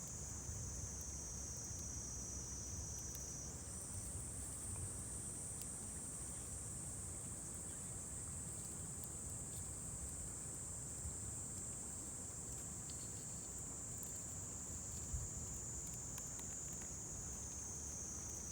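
Insects trilling in a steady, high-pitched continuous chorus, one voice shifting higher a few seconds in, over a low outdoor rumble with a few faint clicks.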